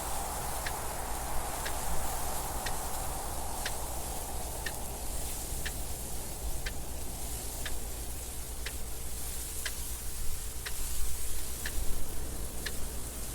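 Clock ticking steadily, about one tick a second, over a constant rushing wind noise with a low rumble.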